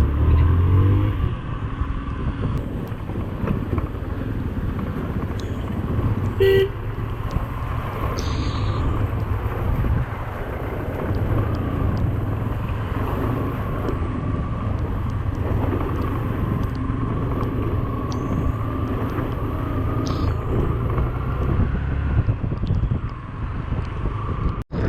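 A Yamaha FZ V2's single-cylinder engine running steadily under way, with road and wind noise around it. A short beep cuts in about six and a half seconds in.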